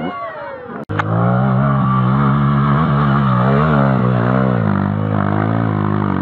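Off-road motorcycle engine running as the bike is ridden, its pitch rising and falling with the throttle. The sound cuts out for an instant just under a second in.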